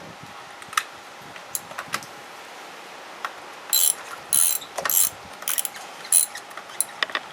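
Ratchet wrench clicking as a spark plug is turned out of the cylinder head, with scattered single clicks and then a run of about five short rasping strokes in the middle.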